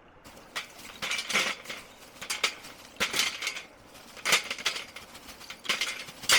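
Lumps of charcoal clinking and crunching as they are tipped and handled in a grill, in about six short bursts roughly a second apart.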